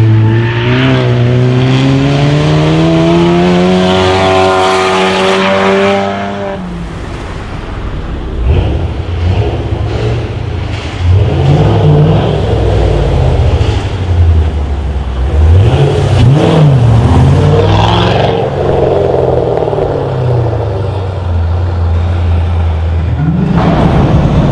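Modified car engines accelerating and revving. One engine's pitch climbs steadily for about six seconds and then falls away. After that, engines are blipped up and down several times and settle to a steady low note, with a louder burst near the end.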